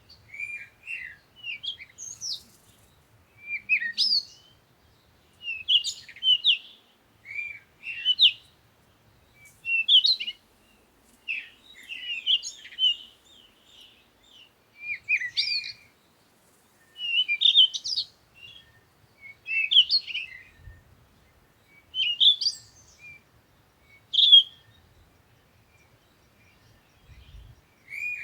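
Bird chirping in short, quick phrases of rising and falling notes, repeating every second or two.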